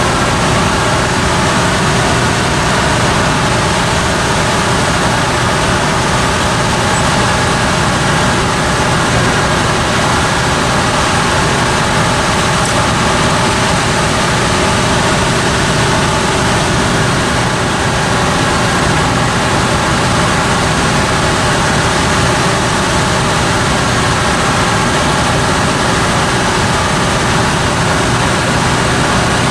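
Loud, steady running noise of a heavy vehicle or engine, an even rumble and hiss with faint steady tones that does not change throughout.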